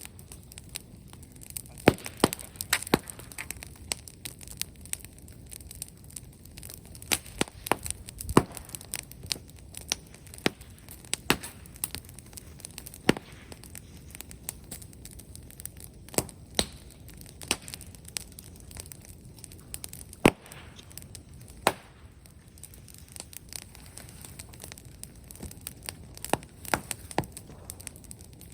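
Brushwood bonfire crackling, with irregular sharp pops and snaps over a low steady hiss of the burning.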